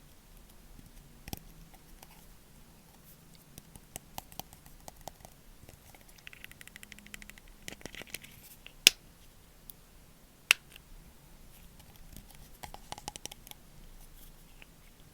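Close-up ASMR trigger sounds: light scattered tapping, ticking and crackly scratching on small objects, with two sharp, louder clicks in the middle.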